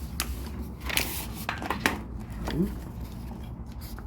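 LEGO pieces and parts being handled on a desk: a few sharp plastic clicks and knocks, most of them in the first two seconds.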